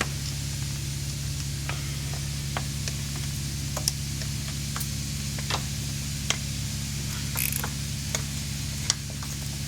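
Light, scattered clicks and taps of small parts being handled, over a steady low hum, with a brief rustle about three-quarters of the way through.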